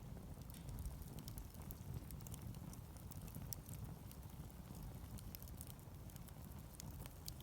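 Wood fire burning, crackling with frequent small, irregular pops and snaps over a steady low rumble.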